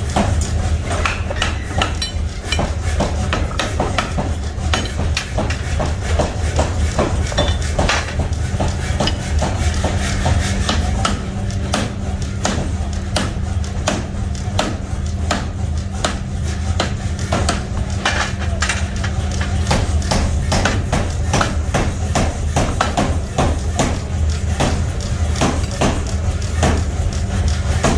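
Repeated, irregular metal hammer blows on steel in a nut-making workshop, over a steady low machine hum.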